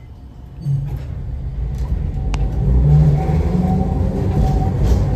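Nagasaki streetcar pulling away: a low rumble and motor hum come in under a second in and build over the next two seconds as the tram picks up speed, then run steadily, with a single sharp click partway through.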